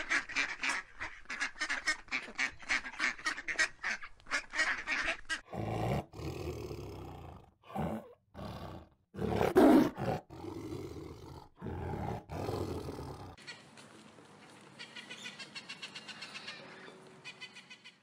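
Ducks quack rapidly, about four calls a second. About five seconds in, a tiger takes over with a run of deep growls and snarls, the loudest about ten seconds in. Over the last few seconds a rainbow lorikeet chatters, fainter.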